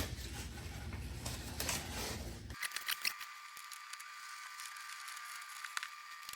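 Light rustling and small clicks of vinyl decal pieces being handled and peeled. About two and a half seconds in the sound changes suddenly, and the rest is sparse small clicks over a thin steady whine.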